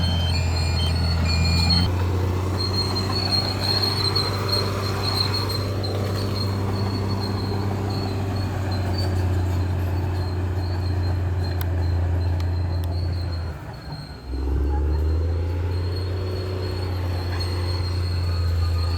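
Bulldozer's diesel engine running steadily, with a thin high squeal from the steel crawler tracks. The sound drops out briefly just before 14 s, then picks up again. Short repeated beeps sound in the first two seconds.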